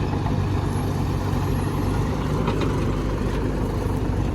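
Heavy diesel machinery engine running steadily at low revs.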